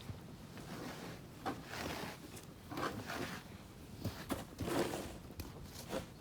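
Snow crunching and scraping in irregular bursts, about half a dozen in a few seconds, with a few sharp clicks between.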